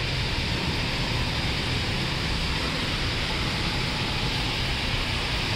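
Steady hiss of rain falling, with a low rumble beneath it.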